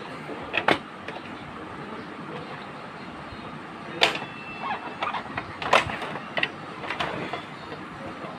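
Sharp plastic clicks and knocks from the casing and parts of an Epson L130 inkjet printer being handled while it is taken apart. They come singly, several seconds apart at first and then more often in the second half, over a steady low hiss.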